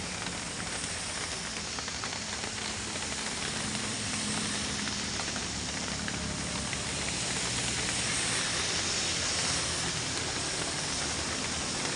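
Heavy rain hissing steadily on a moving truck, with the truck's engine running low underneath.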